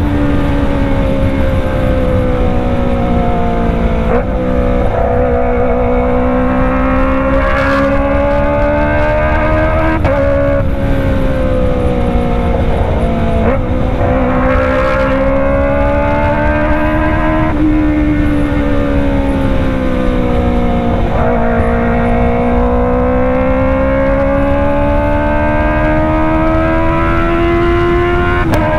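Kawasaki ZX-25R's 250 cc inline-four engine running through a Racefit Slash full-system exhaust. Engine speed rises and falls gently, with several brief breaks where the pitch jumps, typical of gear changes while riding.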